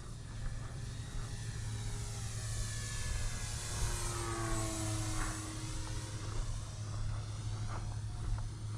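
Electric RC model Cessna 182 flying by, its motor and propeller whining, with the pitch dropping as it passes about halfway through.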